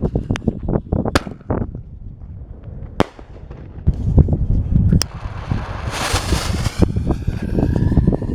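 Reloadable firework artillery shells going off: several sharp bangs spaced a second or two apart, with a short hissing rush a little past the middle.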